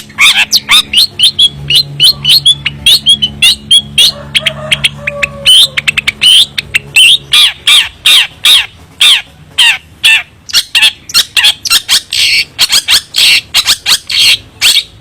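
Long-tailed shrike (cendet) calling in a rapid run of short, harsh notes, about four a second. The notes are more varied in the first half and settle into an even, regular series in the second.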